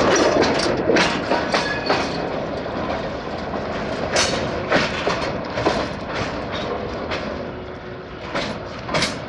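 Freight train wagons rolling along the track, a steady rumble broken by irregular clacks of the wheels over rail joints, with a few faint high squeaks in the first couple of seconds. The clatter slowly grows quieter.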